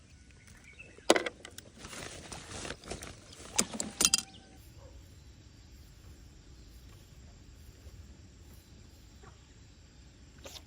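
Several sharp clicks and a rattle of handling noise in the first four seconds, the loudest about a second in and again around four seconds, then a faint steady rush of flowing stream water.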